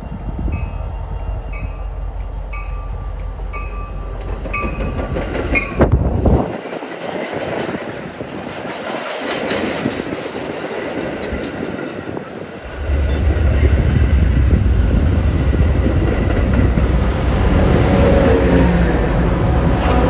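A train passing close by. For the first six seconds a bell dings about twice a second over steady rail noise. Then the sound changes abruptly, and about 13 s in a loud, deep locomotive rumble sets in and holds.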